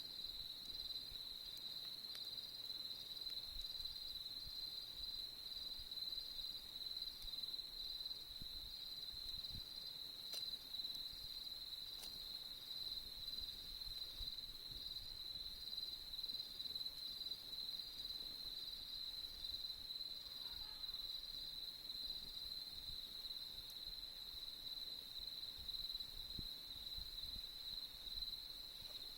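Crickets singing in a steady, unbroken high-pitched chorus, with a few faint clicks.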